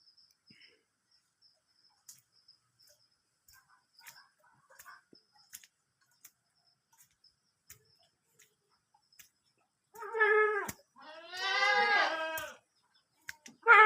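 Goat bleating: a short bleat about ten seconds in, a longer wavering bleat right after it, and another starting at the very end. Before the bleats there is only a faint, fast, steady chirping of insects.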